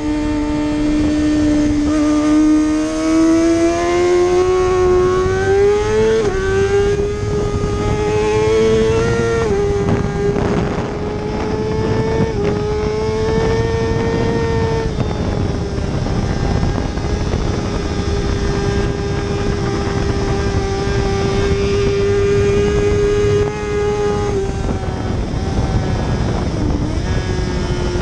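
Race motorcycle engine at high revs. Its pitch climbs and drops back at upshifts about six, nine and twelve seconds in, then holds a steady high note, with a short dip near the end.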